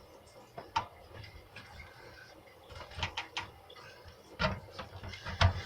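Scattered clicks and knocks of a garbage disposal unit being handled and worked loose from its sink mount: a single click, a short cluster near the middle, and a few heavier knocks near the end.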